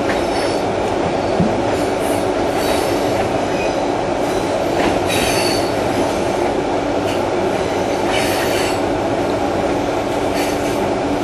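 Train running steadily on its rails, a dense rumble of wheels and carriage, heard from inside a carriage. High wheel squeals come and go about five times.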